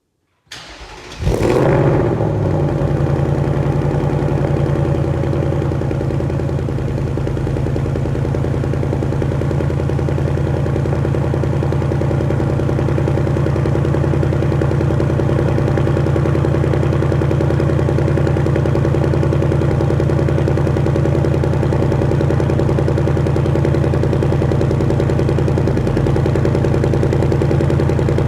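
Ford Mustang Dark Horse's 5.0-litre Coyote V8 cold-starting: the starter cranks briefly, the engine catches about a second in with a rising rev flare that falls back, then it settles into a steady, loud high idle typical of a cold start.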